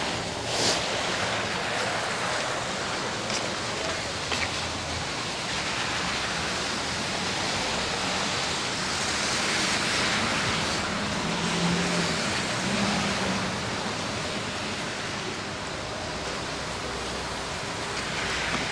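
Steady city traffic on a busy street: a continuous hiss of passing car tyres with a faint engine hum.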